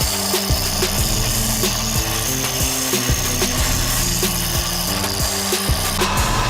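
A power tool working wood, a steady noisy whir, under background music with an even beat.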